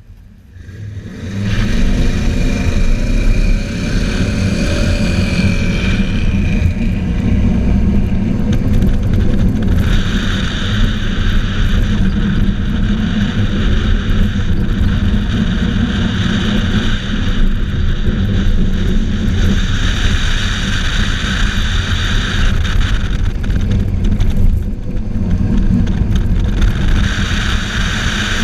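Car engine revving up and accelerating hard, its pitch rising a couple of seconds in, then running loud under load. Stretches of higher-pitched hissing noise come and go over it, about ten, twenty and twenty-seven seconds in.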